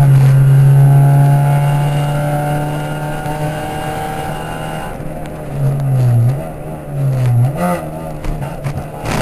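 Ford Puma rally car's engine heard from inside the cabin. It is held at steady high revs for the first few seconds, then eases off, and the revs drop and rise again twice before climbing near the end.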